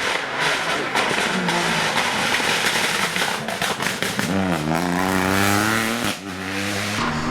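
Rally car engine running hard. There is a quick run of sharp cracks about three seconds in, and the revs dip and climb again a little after four seconds.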